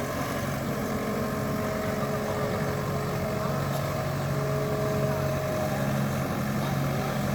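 Wheeled excavator's diesel engine running steadily with a constant low drone, with a faint held whine higher up.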